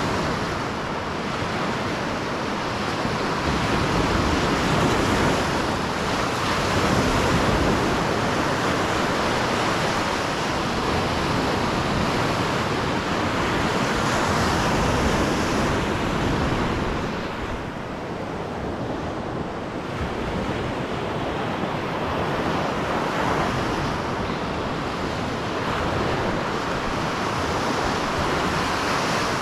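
Lake Superior waves washing onto the shore, a steady rush that swells and eases, with wind buffeting the microphone.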